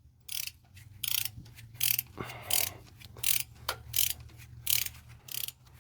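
Torque wrench ratcheting in about ten short, quick strokes while the rocker arm bolts are run down toward 21 foot-pounds, over a low steady hum.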